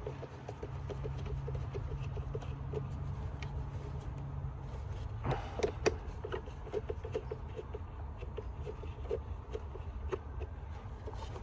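Socket ratchet clicking in short runs while loosening a 10 mm fastener on a car's air filter housing, with a couple of sharper knocks about five and a half seconds in, over a steady low hum.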